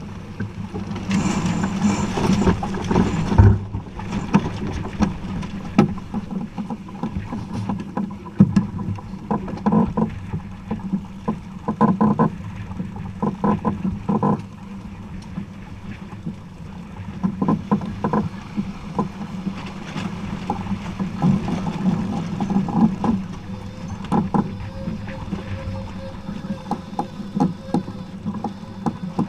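Aboard a Jeanneau 39i sailboat underway: a steady low hum under frequent knocks and clatter from the boat.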